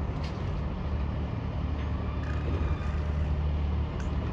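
Garbage truck engine running steadily, a low, even drone.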